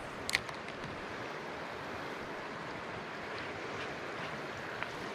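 Steady rush of flowing river water, with one sharp click shortly after the start.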